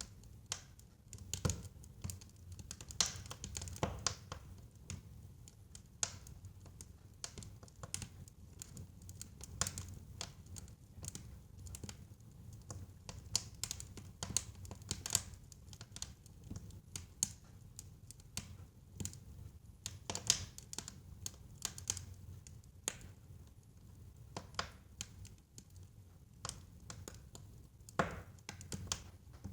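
Wood fire burning in a fireplace, crackling and popping in quick, irregular clicks over a soft low rumble of the flames.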